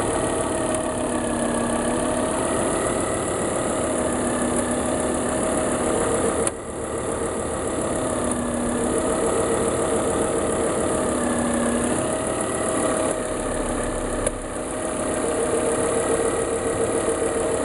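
Volvo S80 2.5T's turbocharged five-cylinder engine idling after a start, with a steady, slightly wavering whistle over the engine noise; the level dips briefly twice. The owner suspects the PCV (oil trap) valve or the air-conditioning compressor clutch, and says the whistle fades once the engine warms.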